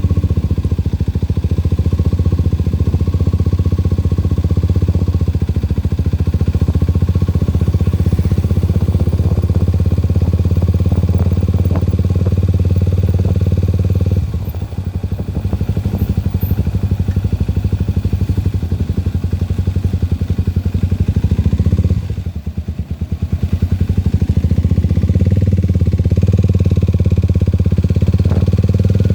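Motorcycle engine running steadily while riding, with its sound dropping briefly twice, about 14 seconds in and again around 22 seconds in, then picking back up.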